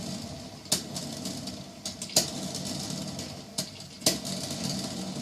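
Hamilton Beach 12-cup stainless steel electric percolator brewing: a steady bubbling hiss broken by irregular sharp pops as boiling water spurts up the stem into the top. Not a loud noise.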